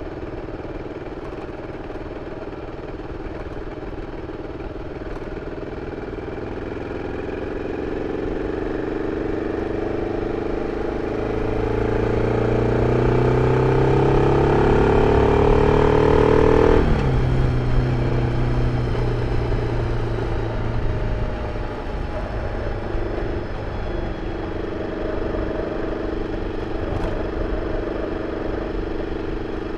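BMW F 650 CS Scarver's single-cylinder engine on its original exhaust, pulling hard with its note rising steadily for about ten seconds. Just past halfway the pitch falls sharply as the throttle closes, and the engine runs on at a steady lower note.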